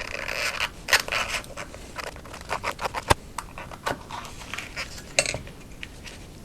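A cut-open car oil filter being pulled apart by hand: irregular scraping and rustling with several sharp clicks as the pleated element comes away from the metal canister and end cap.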